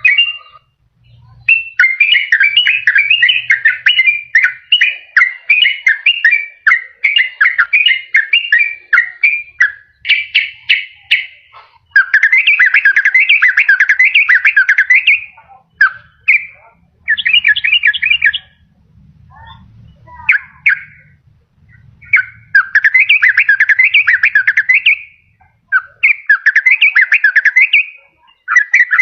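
Yellow-vented bulbul singing a fast, chattering song in bursts of a few seconds, separated by short pauses.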